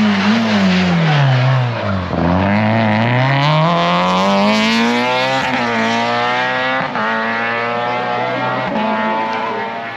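Rally car engine coming off the throttle with its revs falling for about two seconds, then accelerating hard with the revs climbing through the gears, with upshifts around the middle and about seven seconds in.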